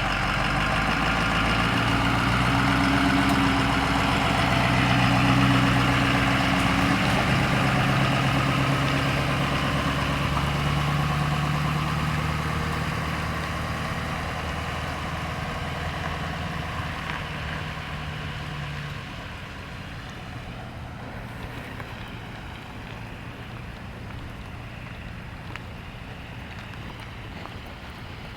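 A motor vehicle's engine running close by over a steady rushing noise, its pitch shifting a little, then fading away about two-thirds of the way through. Only the even rushing noise remains.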